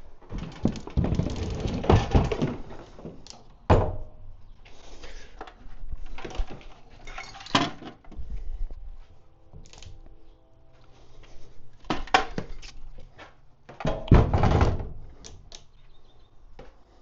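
Hand work on a motorcycle's fuel system: irregular knocks, clunks and scraping of tools and metal parts being handled. There are longer rough scraping or rustling stretches about a second in and again near the end.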